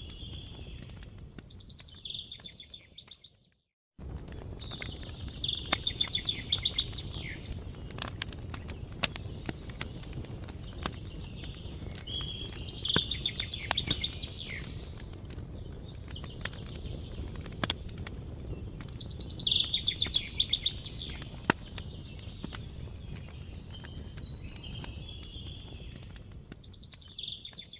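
Campfire crackling with frequent sharp pops over a low steady rumble, while a songbird sings short trilled phrases every several seconds. The sound cuts out briefly a few seconds in.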